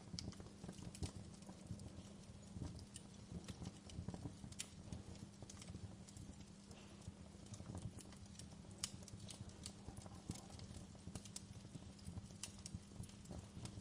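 Wood fire crackling: a continuous scatter of small irregular snaps and pops over a soft low rumble, with a few sharper pops standing out, about 4.5 s and 9 s in.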